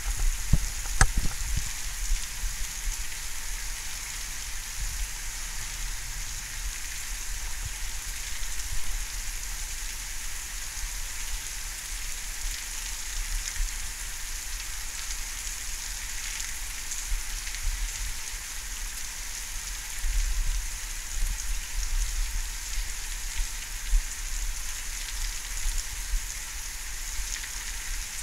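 Steady rain falling in a thunderstorm, an even hiss, with a few sharp ticks about a second in.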